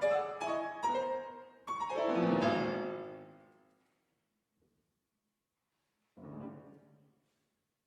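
Solo concert piano playing quick detached chords. About two seconds in comes a loud chord, left to ring and die away. After a pause of a couple of seconds, a short low chord sounds near the end.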